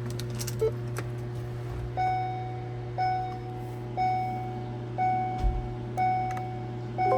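An electronic chime of a single pitch ringing once a second, each ding fading out before the next, over a steady low hum.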